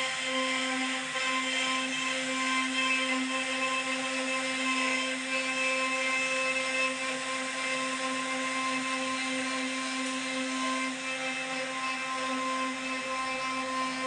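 CNC router spindle whining at a steady pitch as its bit carves wood.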